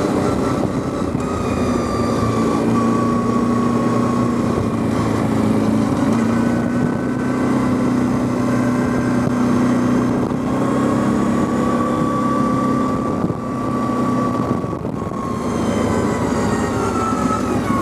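Quad bike engine running under way, its pitch drifting up and down a little with the throttle, with a brief easing-off about three-quarters of the way through.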